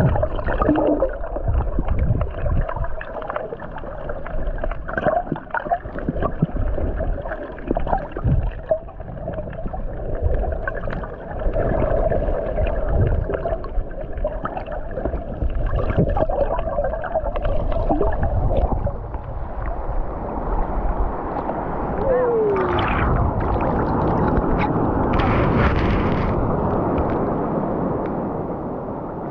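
Sea water sloshing and gurgling around a swimmer's camera, muffled, with irregular knocks and splashes. About two-thirds of the way in it turns into a steadier, fuller rush of water.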